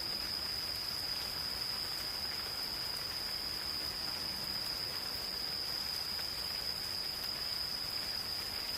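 An insect's continuous high-pitched trill, held steady without a break, over the soft patter of light rain on forest foliage.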